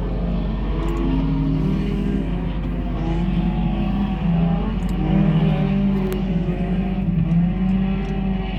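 Several sport compact race cars running under green on a dirt oval, their overlapping engine notes rising and falling as they go around.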